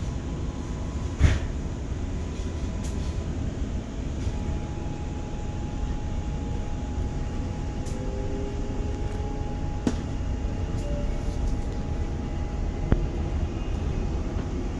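Steady low rumble of wheels on track heard inside the cabin of a moving NGR electric passenger train. There is a sharp knock about a second in and a fainter one near ten seconds, and a faint steady whine joins after about four seconds.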